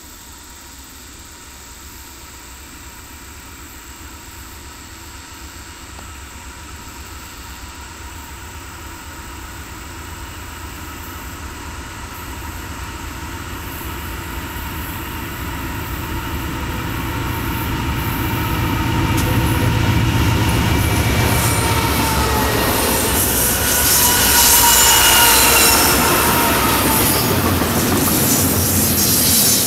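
A BNSF intermodal freight train, led by three GE ES44DC and one ES44C4 diesel-electric locomotives, approaching down a grade and growing steadily louder. The locomotives' deep engine hum passes about two-thirds of the way in. Double-stack container cars then roll by with squealing wheels and clicking over the rails.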